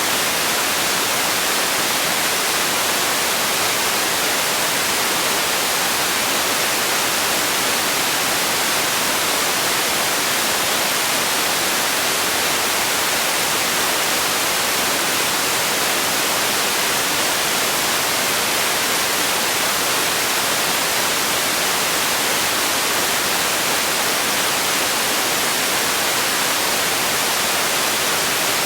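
Steady white noise for sleep: an even, unchanging hiss, brightest in the treble.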